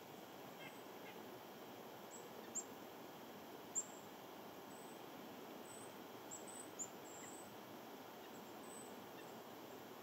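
Small wild birds giving short, very high-pitched chirps, about ten scattered calls with the sharpest two about two and a half and four seconds in, over a steady faint hiss.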